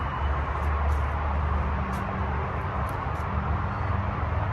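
Steady low outdoor rumble with a faint hum coming in about a second in, and a few brief, faint high chirps.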